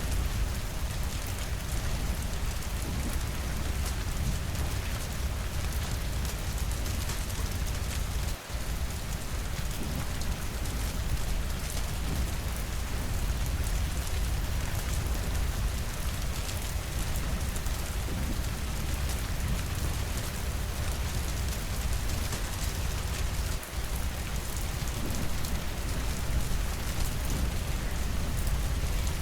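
Steady heavy rainfall, an even hiss with a constant deep rumble underneath. The sound drops out for an instant twice, about eight seconds in and again near the end.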